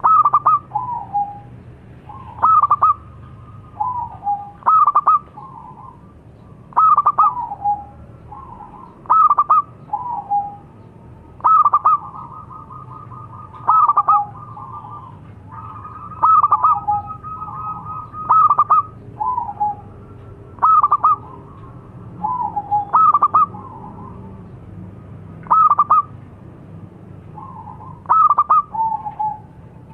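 Zebra dove (local perkutut) cooing: a repeated phrase of quick loud notes ending in a lower falling coo, about every two seconds.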